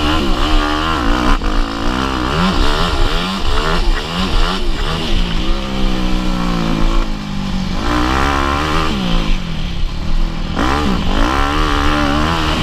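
Motocross bike engine being ridden hard, its pitch rising and falling over and over as the throttle is opened and shut.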